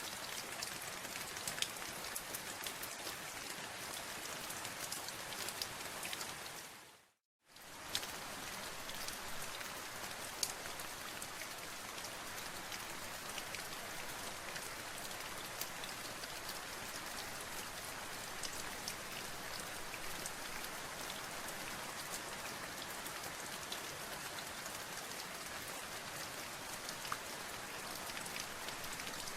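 Steady rain falling on a surface, an even hiss full of fine drop ticks. About seven seconds in it fades out to a moment of silence and comes straight back.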